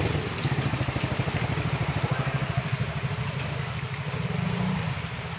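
An engine running steadily at idle, a rapid low pulse.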